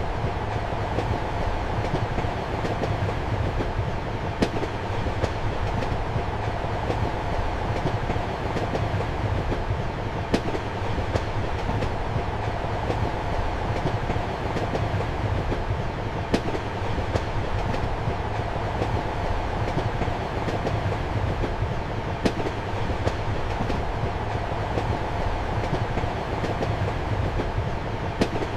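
A passenger train running steadily, heard from inside a compartment: a constant rumble of wheels on track, with a sharp rail-joint click about every six seconds.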